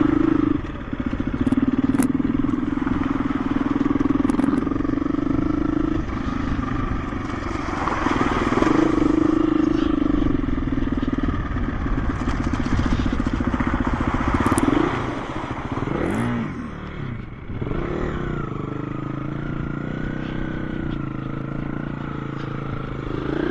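KTM 350 EXC-F dirt bike's single-cylinder four-stroke engine running under throttle off-road. Its revs drop briefly several times and drop and pick up again about two-thirds of the way through.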